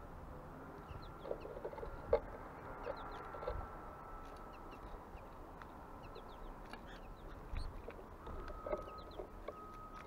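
Birds at a feeder calling, with many short high chirps and a few lower, clucking notes. There is a sharp tap about two seconds in.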